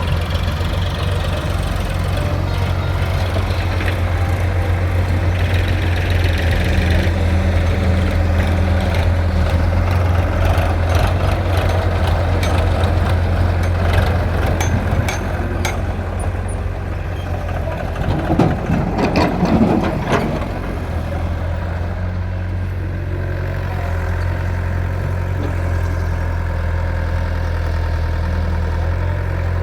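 Tractor diesel engine running steadily with a deep hum, with scattered clicks and knocks in the middle and a louder, rougher stretch about two-thirds of the way through.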